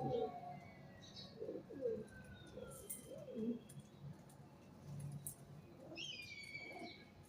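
Pigeons cooing in repeated low phrases, with other birds' thin falling calls over them and a louder, higher falling call near the end.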